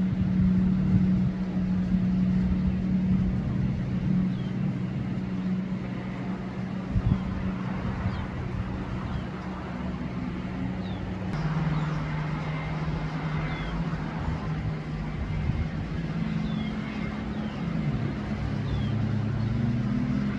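Jet ski engines running steadily. The pitch drops about eleven seconds in and wavers near the end as the throttle changes.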